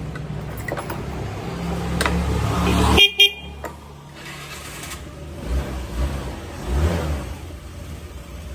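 Honda Lead scooter engine running and getting louder for about three seconds, then cutting off abruptly. Two short horn beeps follow, and then only a quieter, uneven low rumble.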